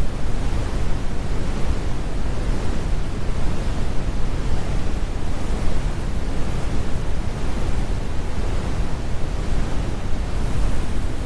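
Steady, deep brown noise: an even rumble weighted toward the low end, with the high frequencies rolled off.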